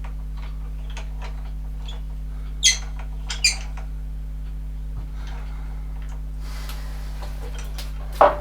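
Two short, high squeaks of metal parts being worked during lathe maintenance, about three seconds in and again half a second later, with a few faint ticks, over a steady low hum. A sharp knock comes just before the end.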